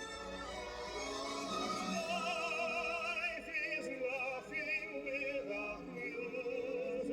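Vinyl record of operatic singing with orchestra, played on a vintage record player. The voice holds long notes with a wide vibrato.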